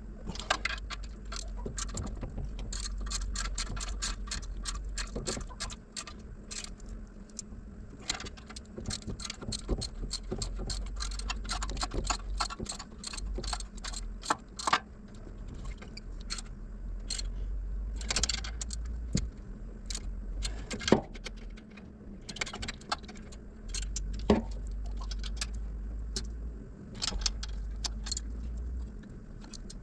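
Hand socket ratchet clicking in quick runs, with metal tools and parts clinking, as bolts are turned; a steady low hum runs underneath.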